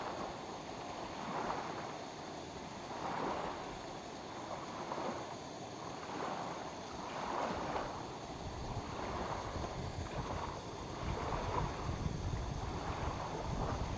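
Small waves lapping against a lake shore, swelling and falling back every second or two. A low wind rumble on the microphone comes in about two-thirds of the way through.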